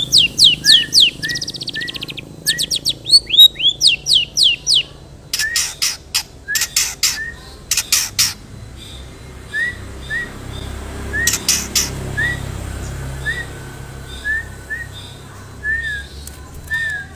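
Long-tailed shrike singing a varied, mimicry-laced song. It opens with rapid volleys of falling whistled notes and bursts of harsh chatter, then gives short separate chirps about once a second, with another harsh burst near the middle.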